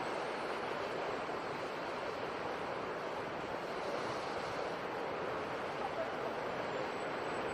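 Sea surf: a steady rushing wash of water with no separate wave breaks standing out.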